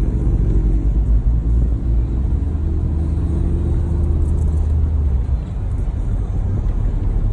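Audi R8 V10 engine running steadily while driving: a continuous low drone, with most of the sound in the low range.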